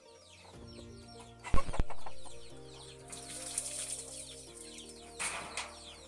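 Chickens clucking around a bamboo coop, with two sharp knocks about a second and a half in and short bursts of rustling noise later, over background music of held notes.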